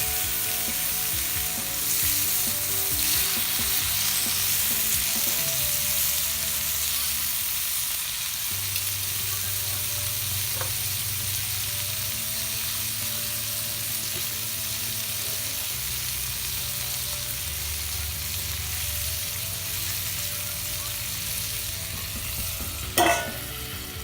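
Bacon and eggs sizzling in a campfire frying pan, a steady frying hiss, with one brief knock near the end.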